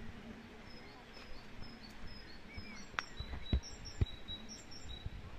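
A bird chirping: a rapid series of short, high chirps, with a few sharp knocks about halfway through.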